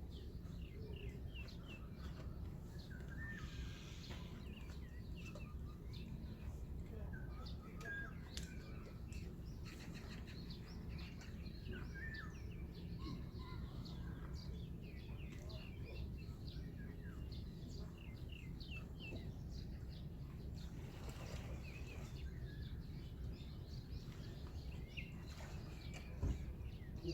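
Many small birds chirping and calling, short overlapping notes throughout, over a steady low background rumble.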